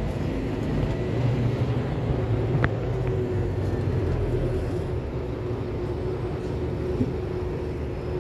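Interior noise of a Scania K280UB4 city bus on the move: a steady low engine and road rumble, with one brief sharp tick about two and a half seconds in.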